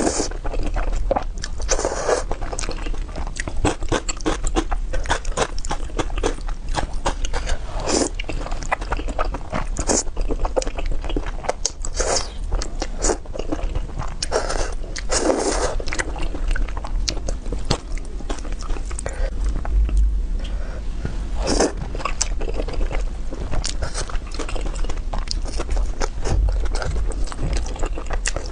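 Biting and chewing into food, with many crisp crunches and clicks coming thick and fast, over a steady low hum.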